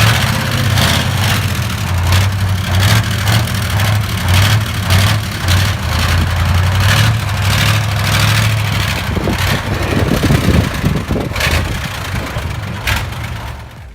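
Heavy truck engine running steadily with repeated knocks and rattles over it. About nine seconds in, the engine note turns uneven.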